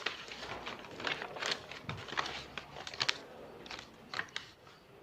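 Irregular soft clicks and rustles, several sharper ticks among them, with no speech.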